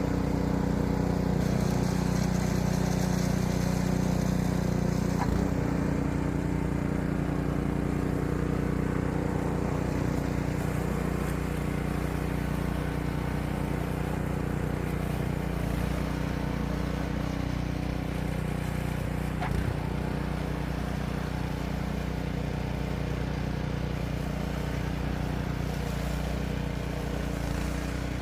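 An engine running steadily at a constant speed, with a faint click about five seconds in and another about twenty seconds in.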